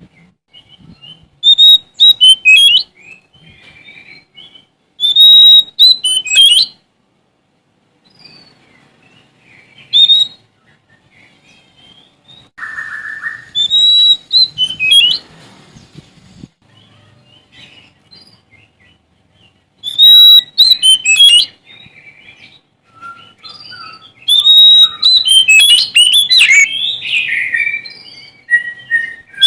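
Oriental magpie-robin (Sumatran kacer) singing in loud, varied phrases of whistles and chirps, separated by pauses of one to several seconds.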